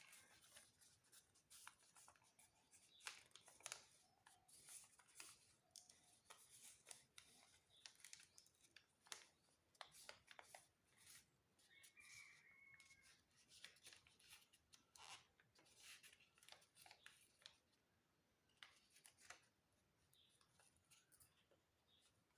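Sheet of paper being folded and creased by hand: faint, irregular crinkling and rustling in short strokes.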